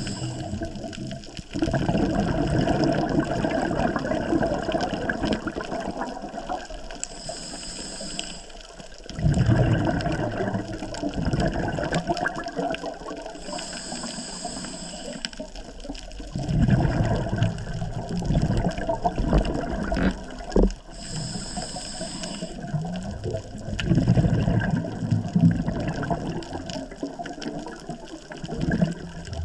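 A scuba diver breathing on a regulator underwater. Exhaled bubbles rumble out in four long bursts, and between them comes the short, high hiss of the regulator on each inhale, in a steady cycle of about one breath every seven seconds.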